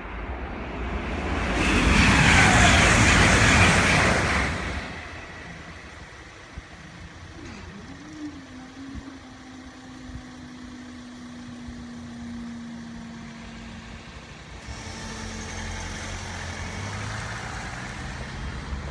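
A train passes the level crossing at speed, a loud rush lasting about three seconds that starts a second or two in. A steady, slightly falling motor hum follows as the crossing barriers lift. Near the end a car's engine comes up as it drives over the crossing.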